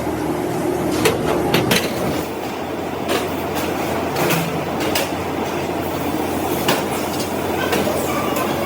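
Workshop machinery running steadily with a low hum, with sharp metallic clacks every second or two.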